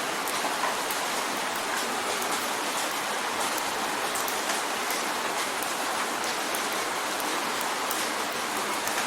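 Steady rain drumming on a windowpane: an even hiss of rainfall with many separate drop ticks scattered through it.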